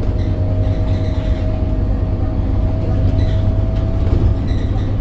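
Scania K270UB city bus and its nine-litre five-cylinder diesel running, a steady deep drone with a thin steady whine above it that fades out about four seconds in.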